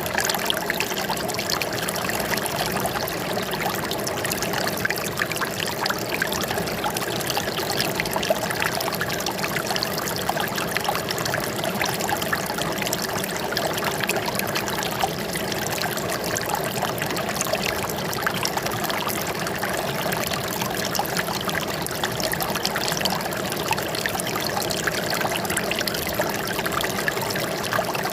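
Water running and trickling steadily, with a constant stream of small splashes and no change in level.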